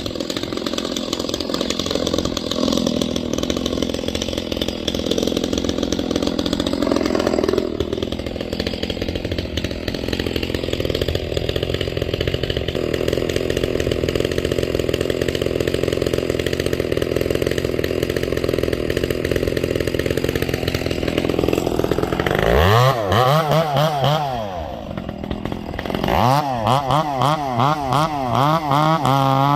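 Ported Echo CS-670 two-stroke chainsaw running steadily for most of the time, then revved up and down over and over near the end, with a short dip in between.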